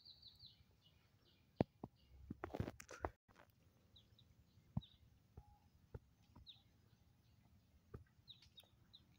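Faint bird chirps now and then, short high notes in small groups. Scattered sharp clicks and a brief rustle about two and a half seconds in.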